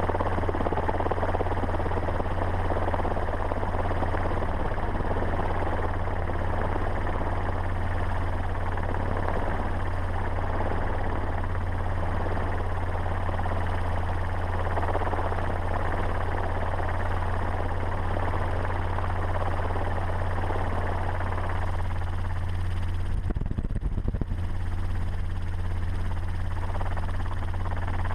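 Steady vehicle running noise: a constant low drone under a rushing hiss, with a brief wavering dip near the end.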